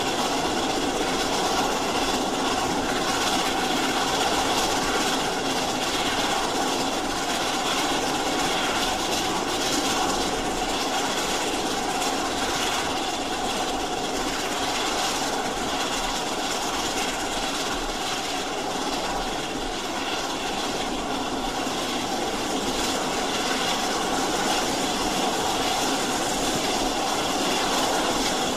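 Steam train running on the rails: a steady, continuous rush of train noise with no distinct beats or pauses.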